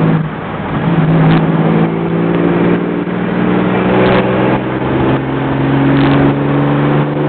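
A hot-rodded 250 cu in (4.1 litre) Chevrolet inline-six running under load while the car drives along. It drops off for a moment just after the start, then pulls steadily, its pitch creeping up a little from about three seconds in, with wind and road noise under it.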